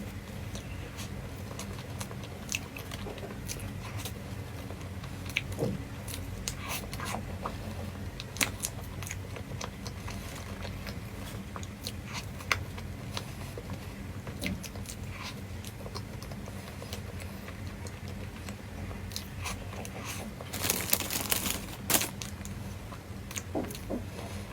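A person eating: scattered crunchy bites and chewing clicks, with a louder run of crackling about three-quarters of the way through, over a steady low hum.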